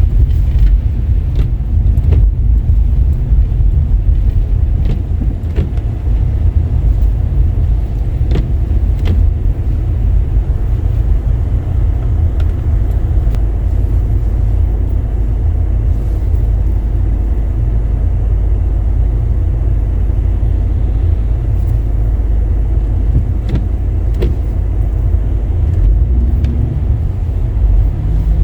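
Car driving on a wet, slushy road, a steady low rumble of tyres and engine with occasional faint clicks.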